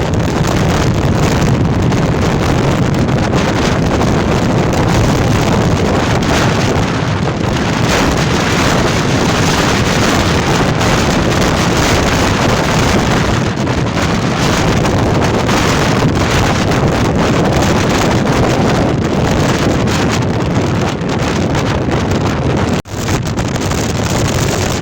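Storm-force wind hitting the microphone: loud, continuous wind noise with no let-up except for a brief dip near the end.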